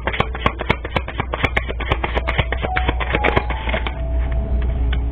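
A deck of tarot cards being shuffled by hand, a rapid run of light card clicks and slaps that thins out and stops about three and a half seconds in.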